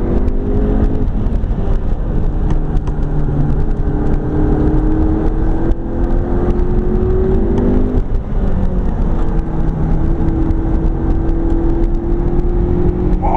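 McLaren 12C's twin-turbo V8 at full throttle, heard from inside the cabin: the engine note climbs slowly through a gear, drops at an upshift about eight seconds in, then climbs again, over a heavy rumble of road and tyre noise.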